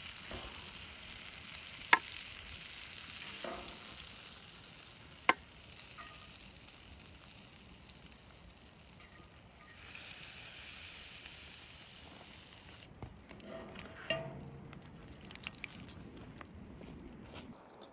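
Steak and butter sizzling in a pan over a campfire, a steady hiss broken by two sharp clicks. After about thirteen seconds the sizzle drops away, leaving scattered small ticks and knocks.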